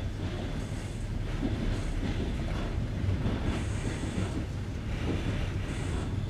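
Passenger train rolling over jointed rails: a steady rumble of the running gear with the wheels clattering at the rail joints, heard from aboard the carriage through an open window.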